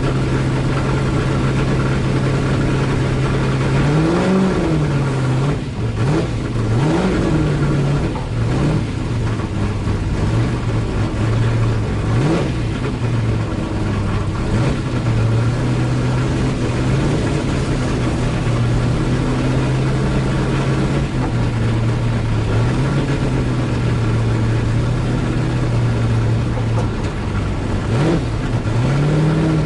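Holden Torana A9X race car's V8 engine at racing speed, heard from inside the cabin. The revs hold high for long stretches and drop and climb back several times, as for corners.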